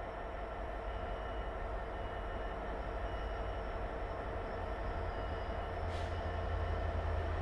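Freight train locomotive running with a steady hum that slowly grows louder, with a short hiss of air about six seconds in.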